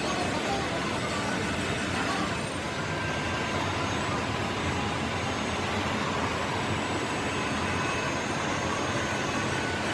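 Steady machinery running, with a faint whine over an even mechanical noise.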